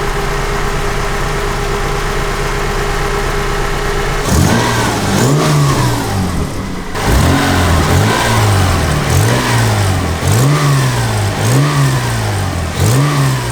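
Toyota MR2's swapped V6 engine idling steadily, then blipped about eight times in a row, roughly once a second, each rev rising and falling back. The exhaust is leaking at a worn gasket where the headers meet the Y-pipe, giving a little flapping noise under the revs.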